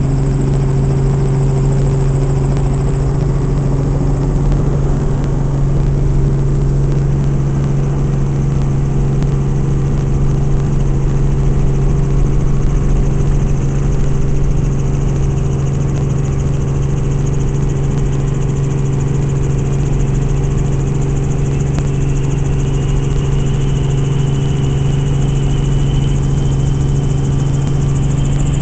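Helicopter engine and rotors running steadily, with a loud constant hum. A faint high whine rises slowly over the last several seconds.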